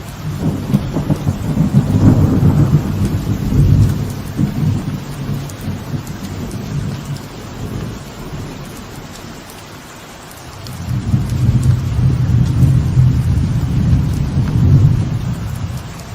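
Steady light rain with two long rolls of thunder, the first in the opening four seconds and the second building about ten seconds in and running on toward the end.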